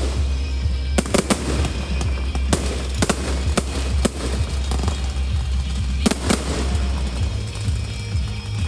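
Fireworks shells bursting in a string of sharp bangs at irregular intervals, some in quick pairs, over the display's accompanying music with its steady deep bass.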